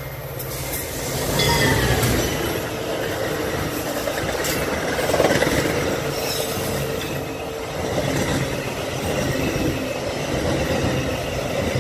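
Metra commuter train passing at speed. The diesel locomotive goes by first, loudest about two seconds in. Then the bilevel passenger cars roll past with a steady rumble and clatter of wheels on rail, and a few brief high wheel squeals.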